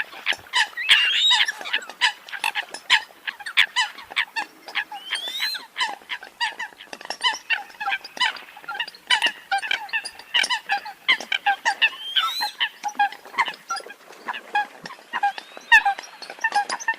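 Eurasian coots calling: a dense, unbroken run of short, sharp honking calls, several a second, with some overlapping as if from more than one bird, and a few upward-sliding notes.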